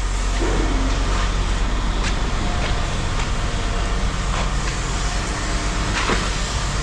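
An engine running steadily with a low hum, with a few sharp knocks or clanks at intervals.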